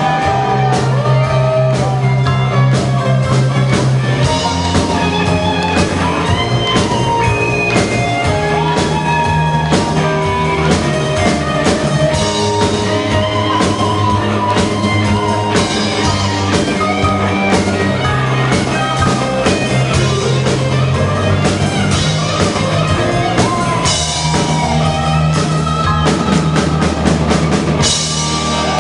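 Live amateur rock band playing: drum kit, electric guitar and bass guitar, with a quick run of drum hits in the last few seconds as the song closes.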